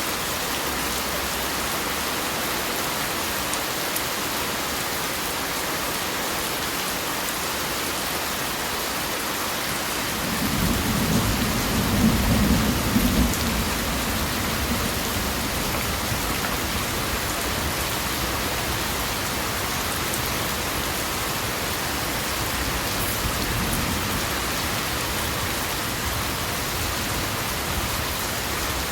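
Steady rain falling, an even hiss throughout. About ten seconds in a roll of thunder swells up low underneath, loudest a couple of seconds later, then dies back into the rain.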